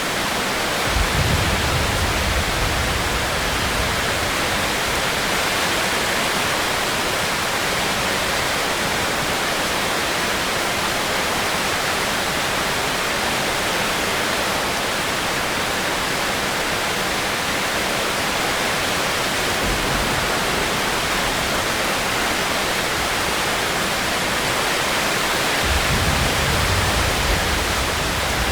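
Heavy rain falling steadily, a dense even hiss. A low rumble swells briefly about a second in and again near the end.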